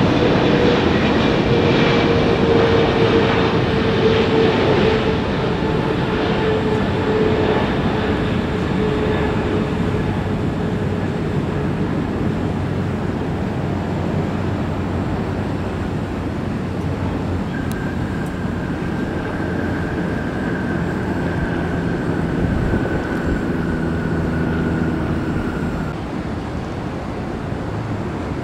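Jet airliner engines passing and moving away: a steady rush with a whine that slowly falls in pitch, the whole fading gradually. A second, higher whine sounds in the latter half.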